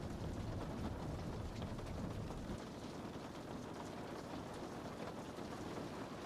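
Steady rain pattering on window glass, a constant hiss of fine drop ticks. A low rumble underneath drops away about two and a half seconds in.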